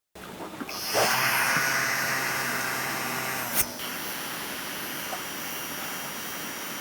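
Small electric fan of a mini air-conditioner gadget running, a steady rush of air with a faint motor hum. There is a click about halfway through, after which it runs quieter.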